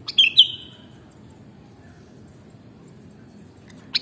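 Sooty-headed bulbul (kutilang) giving a short, loud call of a few quick notes just after the start, then the same call again right at the end, over a faint steady background hiss.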